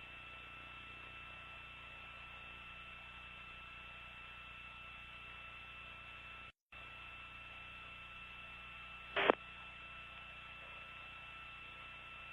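Faint hiss of an open radio communications channel, with two steady tones running through it. The signal drops out for a moment about six and a half seconds in, and a short burst of radio noise comes about nine seconds in.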